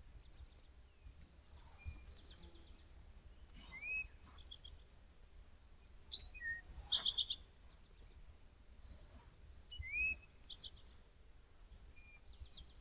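A songbird singing a short phrase over and over, every two to three seconds: a quick rising note followed by a fast run of high notes, loudest about seven seconds in.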